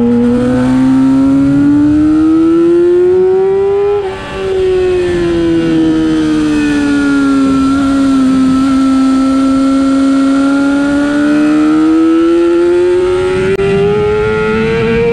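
Middleweight race motorcycle's engine heard onboard at speed. It rises in pitch for about four seconds, drops off briefly as the throttle closes, winds down for several seconds, then climbs again near the end as the bike accelerates.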